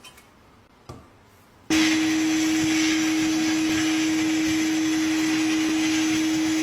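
A small electric power tool running at a steady speed with a constant whine for about five seconds, switched on after a couple of soft knocks and cut off abruptly near the end.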